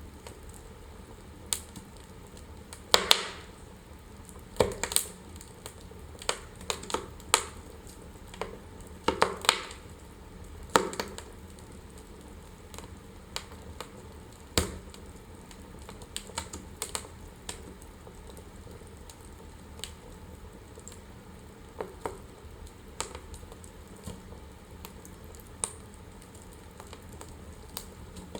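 Wood fire burning in a fireplace, crackling with irregular sharp pops over a soft steady hiss. The pops come thick in the first half and sparser after.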